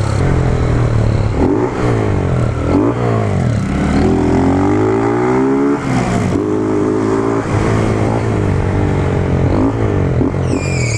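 Honda CG 150 Fan's single-cylinder four-stroke engine running with only a bare exhaust pipe and no muffler, revved while riding, its note rising and falling again and again.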